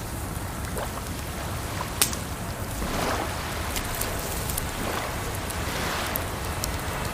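Campfire crackling and popping, with one loud pop about two seconds in, over a steady rush of flowing water.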